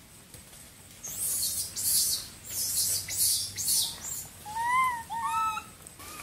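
Cats hissing in a string of short, sharp bursts, then three short rise-and-fall mews. The hissing is part of squabbling over the pecking order.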